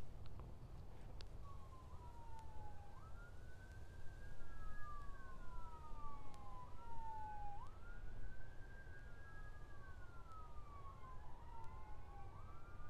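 Emergency-vehicle siren in a slow wail, its pitch rising and falling every few seconds, with two overlapping wails, heard faintly over a low background rumble.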